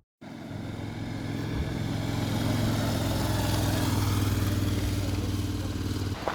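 Motor vehicle engine running steadily, a low hum under a constant hiss, cutting in and off abruptly.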